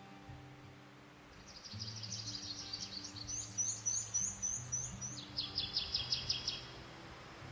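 A songbird singing, starting about a second in: a fast run of high notes, then a trill, then a series of quick repeated notes, about five seconds in all.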